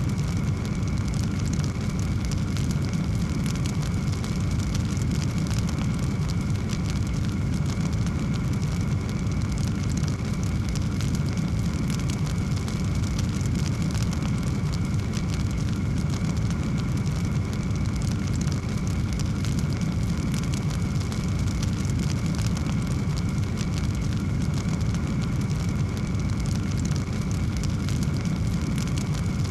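Wood fire burning in a fireplace: a steady low rush of flames with many small crackles and pops throughout.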